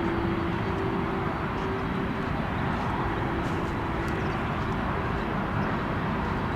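Jet airliner's engines after takeoff: a steady rumble and hiss with a humming whine that fades out two or three seconds in, the noise slowly dying away as the aircraft climbs off.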